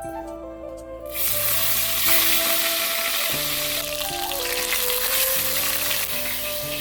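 Food sizzling in hot oil in a pan, starting suddenly about a second in, as when ingredients go into the hot oil, then frying steadily. Background music plays underneath.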